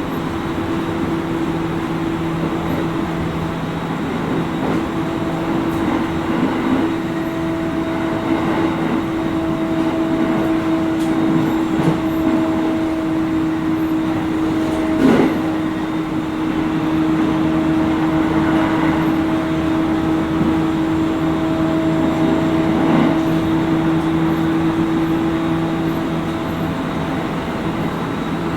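Interior running sound of a JR 701 series 5500-subseries electric train, heard inside the motor car: a steady hum of the drive with wheels rolling on the rails at an even speed. There is a single sharp knock from the track about halfway through.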